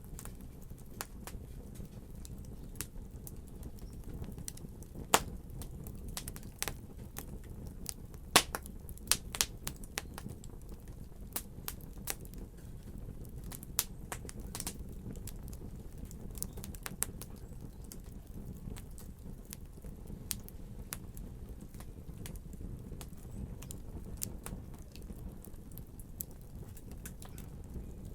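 Wood fire burning with a steady low rumble and irregular sharp crackles and pops, the loudest about five and eight seconds in.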